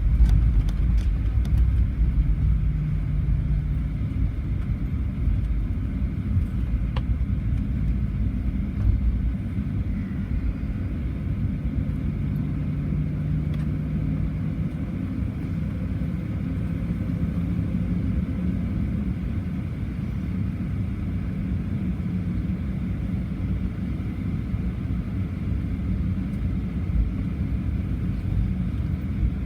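Cabin noise of a Boeing 737-800 taxiing: a steady low rumble of the CFM56 engines at idle and the wheels rolling over the taxiway. The rumble is heaviest for the first nine seconds or so and then settles lower, with a few faint clicks.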